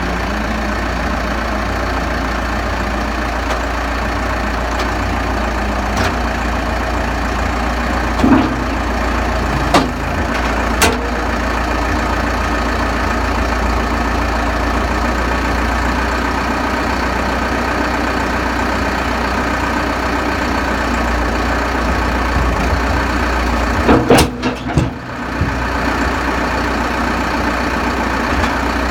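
Diesel engine running steadily at idle, with a few short clunks around ten seconds in and a cluster of louder clunks near the end.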